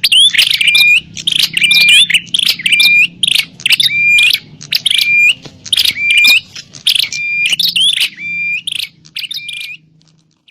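Prinias (prenjak) calling in a rapid, noisy series: a sharp chirping phrase with a short rising note, repeated about twice a second, the agitated calling of prinias fighting. The calls thin out and stop near the end.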